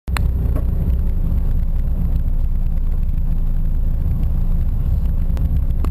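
Mitsubishi Colt rally car's engine running steadily, a low rumble heard inside the cabin, with a couple of light knocks near the start and end.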